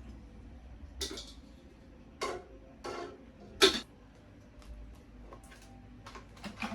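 A handful of separate clinks and knocks of small hard objects being handled, the loudest a little past halfway.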